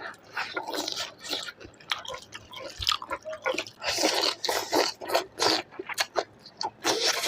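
A person chewing chicken, with wet, squishy mouth sounds and irregular clicks.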